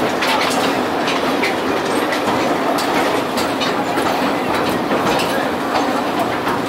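Taiwan Sugar's 762 mm narrow-gauge tourist train, hauled by Hitachi diesel locomotive 837, running along the track as heard from an open-sided carriage: a steady rumble of wheels on rail, with frequent irregular clicks and clatter.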